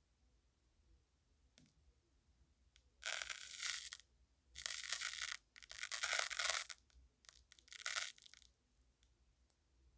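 Colored sand being scratched in four scratchy strokes of about a second each, with a few faint clicks between.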